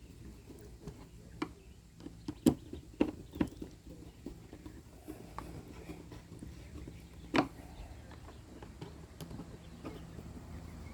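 Scattered clicks, taps and knocks of hand work as screws and a plastic rod holder are fitted back onto a plastic kayak. A cluster of sharper knocks comes between about two and three and a half seconds in, and one more about seven seconds in.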